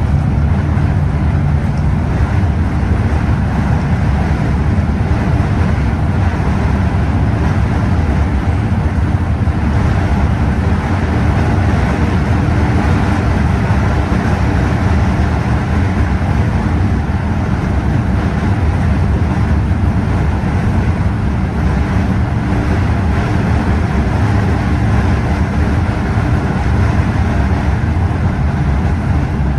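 Scania OmniExpress express bus running at a steady pace: a steady, loud drone of engine and road noise, with a faint steady hum in the first couple of seconds.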